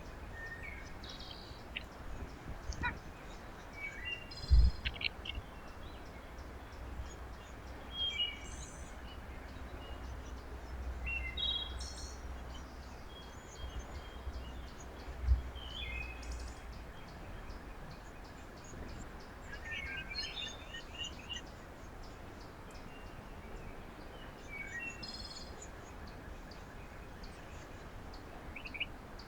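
Small songbirds at a feeder giving short, high chirps every few seconds over steady outdoor background noise. Two sharp low thumps, the louder about four and a half seconds in and another about fifteen seconds in.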